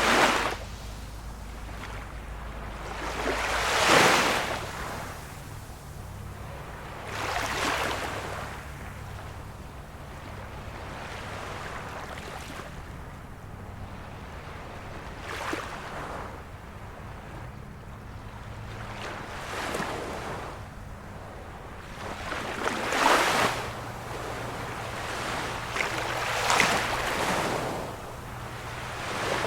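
Small waves of a calm sea washing onto the shore, each wave rising to a hiss and fading, one every few seconds, over a steady low rush.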